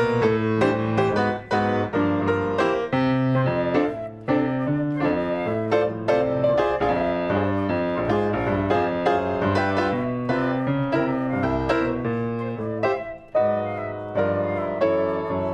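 Piano playing a jazzy swing tune, with quick, sharply struck notes over a steady bass line.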